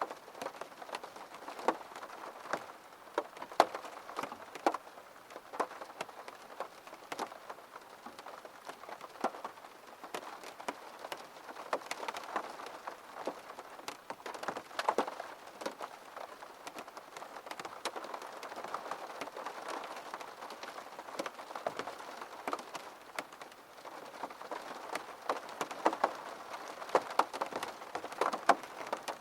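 Rain pattering on a window pane: a steady hiss with many irregular sharp drop taps.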